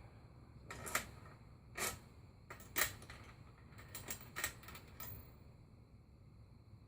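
A ratchet wrench clicking in short, irregular spurts, about eight sharp clicks in four seconds, while loosening the top of a motorcycle front fork.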